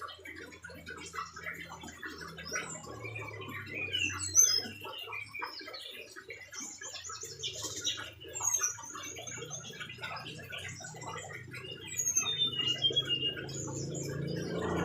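Brown-chested jungle flycatcher singing: a busy run of short, high chirps and quick whistled sweeps, over a steady low hum.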